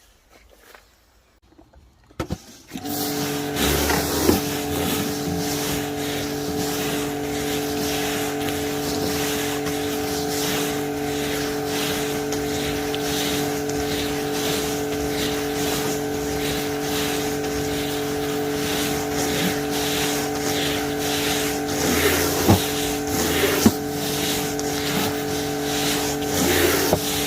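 Wilks USA RX 550i electric pressure washer switching on about two and a half seconds in and then running steadily, its motor and pump humming at a fixed pitch under the hiss of the spraying water jet.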